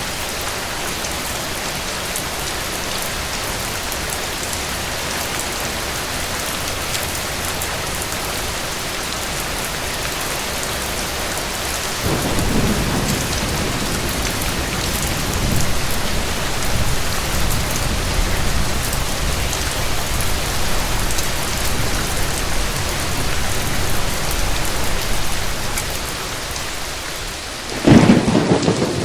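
Steady rain falling. About twelve seconds in, a low thunder rumble joins it and keeps rolling, and near the end a loud, sudden thunderclap breaks out.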